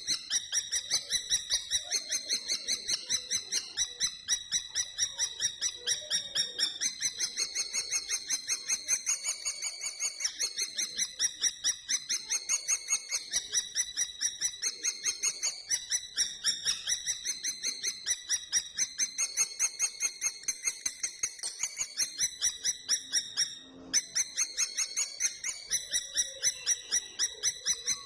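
Common kestrel calling a rapid, high-pitched kee-kee-kee, about five calls a second without let-up, broken once briefly near the end.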